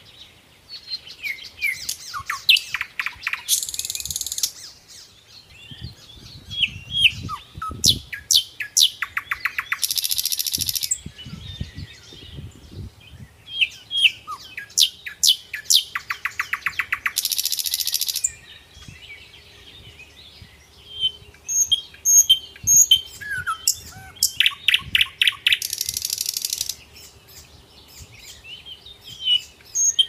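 Birds chirping and calling, with rapid trills and a long buzzy high-pitched call that comes back every several seconds.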